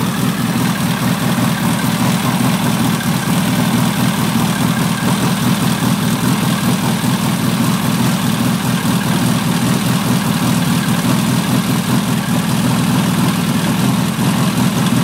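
Freshly built air-cooled VW flat-four stroker engine with a single Zenith 32NDIX carburettor idling steadily during its break-in running.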